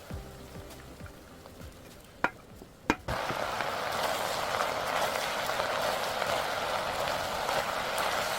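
Two sharp clicks, then food suddenly starts sizzling in a hot pan about three seconds in, a steady crackling hiss that keeps going.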